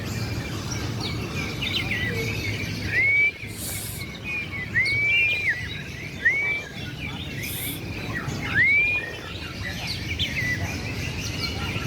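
A chorus of many caged songbirds singing over one another, with loud, looping whistled notes standing out several times.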